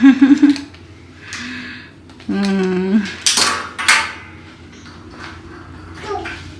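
Dishes and cutlery clattering, loudest in a burst of sharp knocks about three to four seconds in, with short wordless vocal sounds before it.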